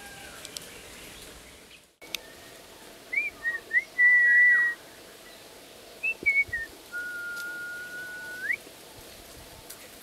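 A bird's clear whistled notes: a quick run of short whistles about three seconds in, then one long steady whistle that turns sharply upward at its end. The background sound briefly cuts out about two seconds in.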